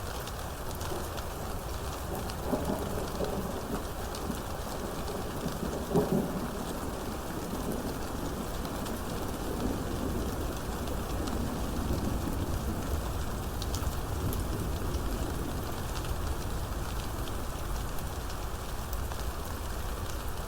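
Steady rain falling, with rumbles of thunder through it and one louder, sharper thunderclap about six seconds in.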